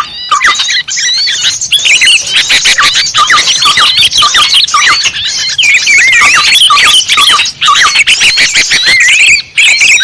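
Dense chorus of many small birds chirping and twittering over one another, quick rising and falling notes packed without a break. It is a bird-lure recording, played to draw small birds in.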